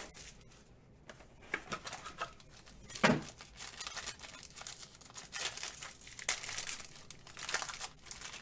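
Wrapping on a box of trading cards crinkling and tearing as it is opened, with irregular rustling throughout and one louder knock about three seconds in.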